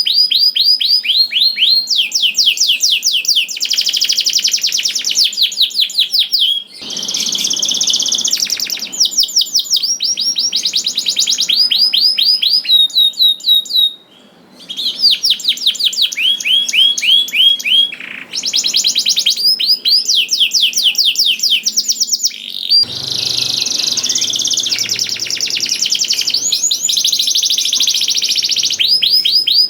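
Domestic canary singing: long rolling trills of rapidly repeated, downward-sweeping whistled notes, shifting from one trill tour to the next, with a brief pause about halfway through.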